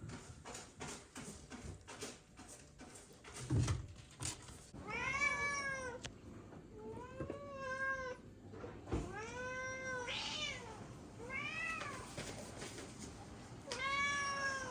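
A cat meowing over and over, about five drawn-out meows from about five seconds in. Before the meows come a few seconds of light clicks and taps.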